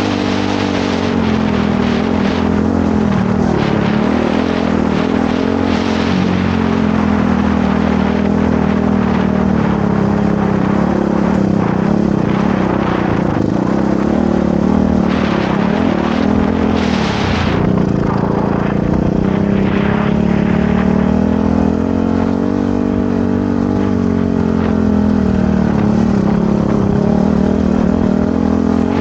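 Motorcycle engine running continuously while riding, its pitch slowly rising and falling with the throttle, with short rushes of wind or brush noise now and then.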